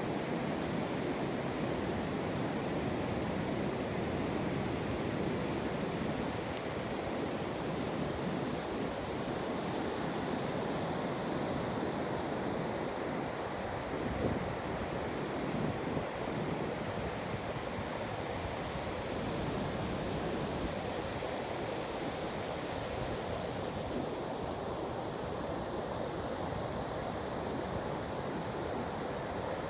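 Ocean surf washing onto the beach in a steady, continuous rush of waves, with a slightly louder swell about halfway through.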